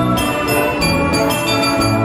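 Wurlitzer 157 carousel band organ playing a tune, with notes changing in quick succession over a steady bass line.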